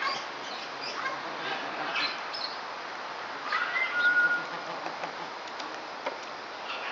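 Outdoor ambience with scattered short bird calls; about three and a half seconds in, a louder call rises and ends in a brief held whistle-like note.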